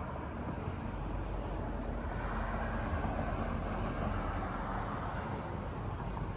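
Steady low rumble and hiss of outdoor background noise, with a constant deep hum underneath and no distinct events.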